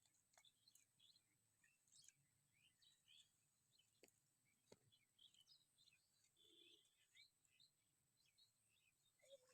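Very faint birds chirping in short, scattered calls over a steady thin high-pitched tone, with a couple of soft clicks about halfway through.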